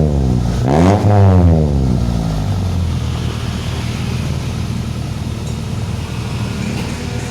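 Car engine through an aftermarket stainless-steel racing exhaust: revs dropping, one quick blip of the throttle about a second in, then settling to a steady idle.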